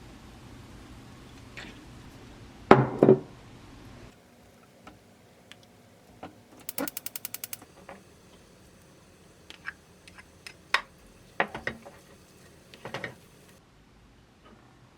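Kitchen clatter: dishes and utensils knocking, loudest in a cluster of knocks about three seconds in, followed by a quick run of about ten clicks and scattered sharp taps.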